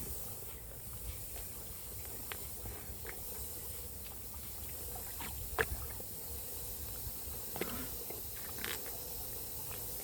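Outdoor ambience near a herd of Highland cattle: a steady low rumble of wind on the microphone, with a few short clicks and rustles, the sharpest about halfway through.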